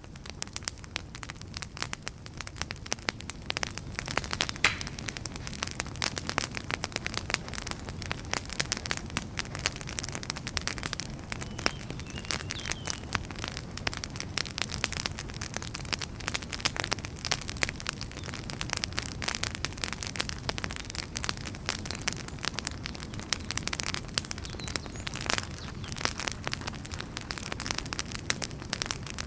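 Wood fire crackling: frequent, irregular sharp pops and snaps over a low, steady rumble of the burning logs.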